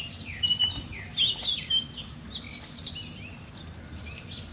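Many small birds chirping and twittering, their calls overlapping, the busiest about one to two seconds in, over a low steady rumble.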